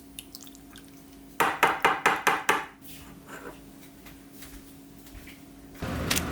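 Kitchen dishes and utensils clattering: a quick run of about six sharp knocks, starting about a second and a half in. A steady crackling hiss starts near the end.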